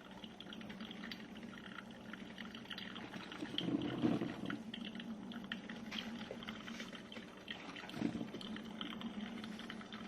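GEVI 12-cup drip coffee maker brewing: hot water gurgling and dripping into the filter basket and pot, with a steady low sound and two louder gurgling surges, about four and eight seconds in.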